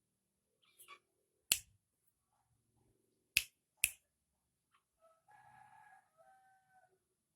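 Three sharp clicks, the second and third half a second apart, then a rooster crowing faintly near the end.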